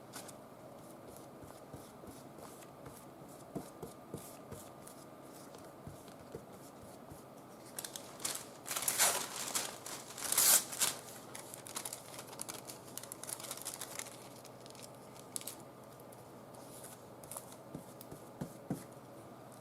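Tissue paper rustling and crinkling as it is handled, loudest in two bursts around the middle, with faint scattered taps and ticks of handling around it.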